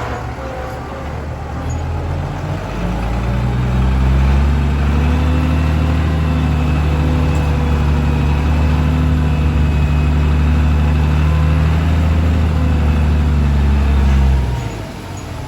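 A ten-wheel dump truck's diesel engine running loud under load. It builds over the first few seconds, holds steady and low, then drops off sharply about a second before the end.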